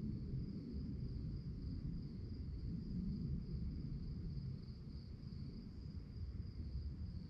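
Crickets chirping in a steady, fast pulsing trill, over a continuous low rumble.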